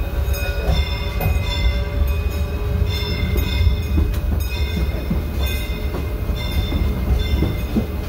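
Narrow-gauge railroad passenger car rolling along the track behind a steam locomotive: a steady deep rumble with rail clicks, and short high ringing tones that keep coming and going over it.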